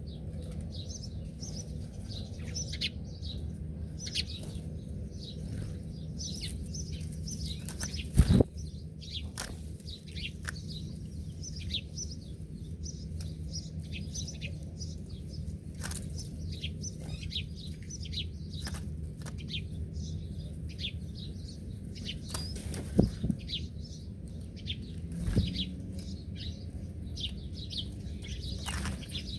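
Many small birds chirping with quick, short high calls throughout, over a steady low background rumble. Three loud sharp knocks or flaps stand out, one about 8 seconds in and two more near 23 and 25 seconds.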